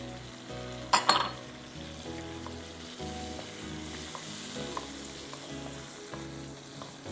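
Chicken and tomato masala sizzling as it fries in a non-stick wok, stirred and scraped with a silicone spatula, with small ticks throughout. A sharp knock about a second in is the loudest sound.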